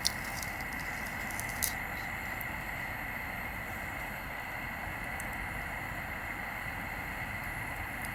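Steady outdoor background noise with a faint, constant high whine, broken by a few sharp single pops or crackles, two of them near the start about a second and a half apart.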